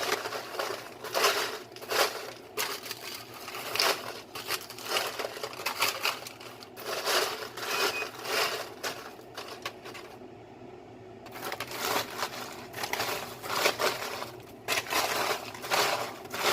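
Baked popcorn being stirred and turned over on a baking sheet: quick, irregular crunchy rustling and rattling, with a brief pause about ten seconds in. It sounds crunchy but not yet fully crisp, so it goes back in the oven for more baking.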